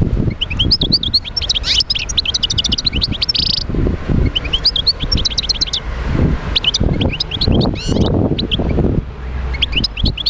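European goldfinch singing: fast twittering phrases of short high chirps and trills, several phrases with brief pauses between them. A low, uneven rumble runs underneath.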